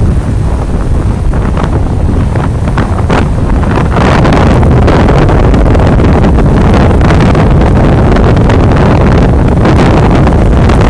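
Strong onshore wind blasting the microphone with a heavy low rumble, over the noise of rough surf. About four seconds in, the wind strengthens into a steady, louder roar.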